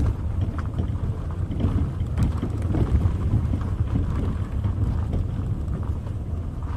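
Car driving along a road, heard from inside: a steady low rumble of engine and tyre noise with a few light knocks.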